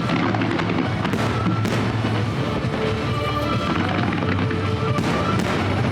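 Fireworks going off in several sharp bangs and crackles, under background music with sustained notes and a steady bass line.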